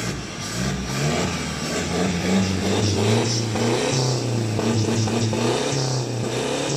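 Car engine with a straight-pipe, side-exit exhaust being revved, its note rising and falling through several throttle blips.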